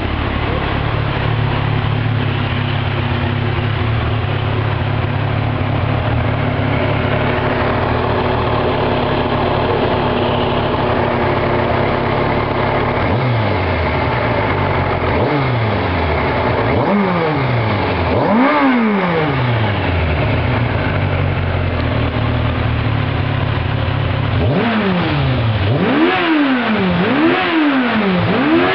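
1997 Kawasaki ZZR1100's inline-four engine through its stock exhaust, idling steadily, then revved a few times about halfway through. It settles back to idle, then is blipped several times in quick succession near the end.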